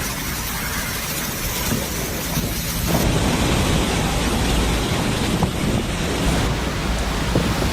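Steady rushing noise of typhoon wind and driving rain, changing abruptly about three seconds in.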